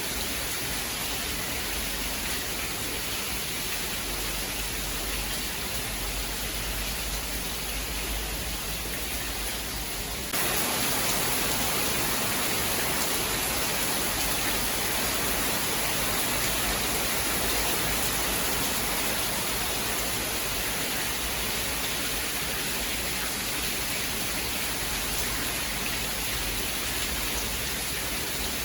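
Steady, dense rain hiss with no thunder. About a third of the way in it jumps abruptly a little louder and brighter, then holds steady again.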